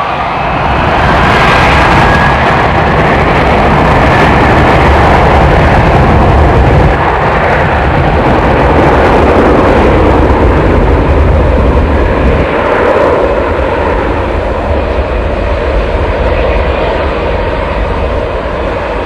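Boeing 737-800 airliner's CFM56-7B jet engines passing close by: a loud, steady jet noise that builds over the first couple of seconds, holds, and then slowly fades over the last several seconds.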